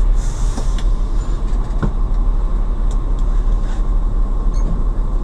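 Steady low rumble of a moving road vehicle: engine and road noise, with a brief hiss near the start and a few light clicks.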